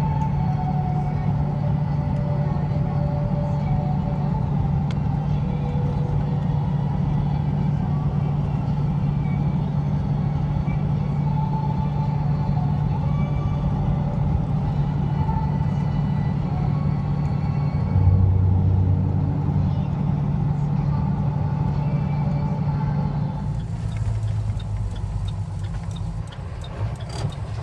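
Steady low drone of a transport truck's engine and road noise, heard from inside the cab while driving. A deeper rumble swells briefly about two-thirds of the way through, and the sound changes abruptly near the end.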